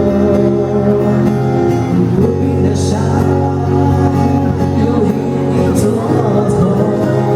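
Live band music with a male singer, a ballad sung over held, sustained chords.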